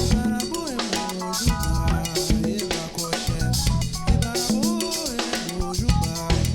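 Band playing an instrumental groove: drum kit and bass keep a steady beat under a melody line that bends up and down in pitch.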